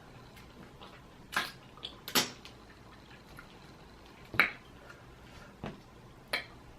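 Wet eating sounds from peeling and eating boiled crawfish: about five short, separate smacks and squishes at irregular intervals.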